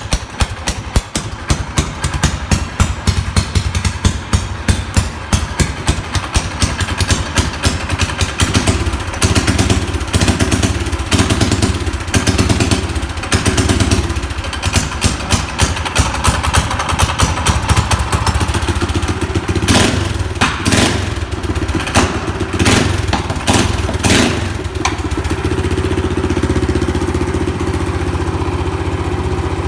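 Straight-piped Predator 212 single-cylinder four-stroke engine running with no muffler, each exhaust pulse coming out as a separate pop at idle. It is blipped up several times, with a few sharp cracks from the exhaust, and settles into a faster, steadier run near the end.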